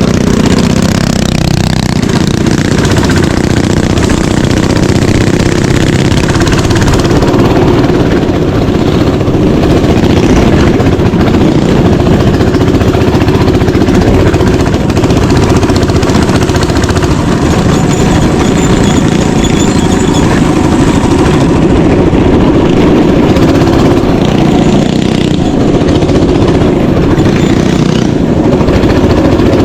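Mini bike engine running loud and steady without a break.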